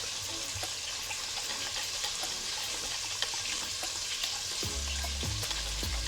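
Chicken wings deep-frying in hot oil: a steady sizzle with small popping crackles. A low hum comes in near the end.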